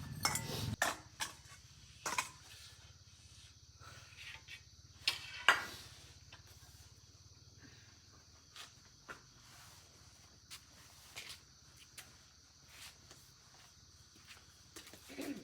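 Scattered sharp clicks and knocks of tools and bicycle parts being handled during a repair, the loudest pair about five seconds in, then fainter ticks. A low hum stops within the first second.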